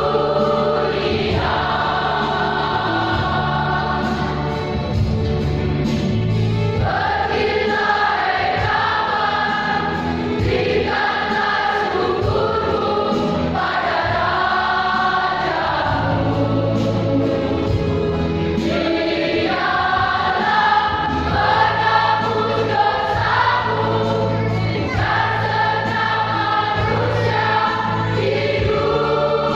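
Church choir singing in several parts, holding long sustained notes over a steady low accompaniment.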